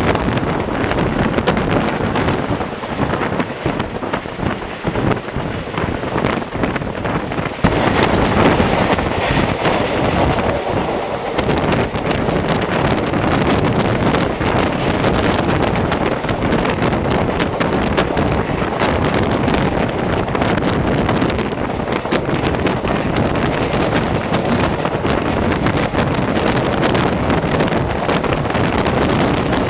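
Wind buffeting the microphone over the running noise of a moving passenger train: coach wheels rumbling and clattering on the rails. The noise gets louder and fuller about eight seconds in and stays that way.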